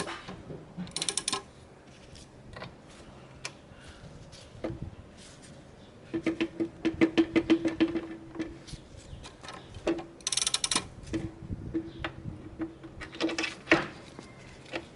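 Metal clicks and rattles of hand work on a moped engine being fitted into its frame. Two runs of rapid clicking come around the middle and near the end, and two short hisses come about a second in and again about ten seconds in.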